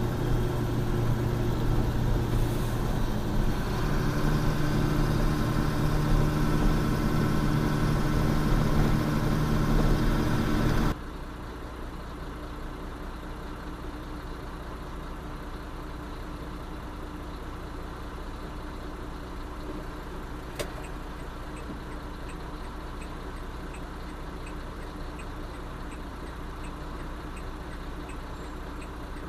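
Truck engine running steadily, heard from the cab. About eleven seconds in it drops suddenly to a quieter, steady running sound with faint, evenly spaced ticks.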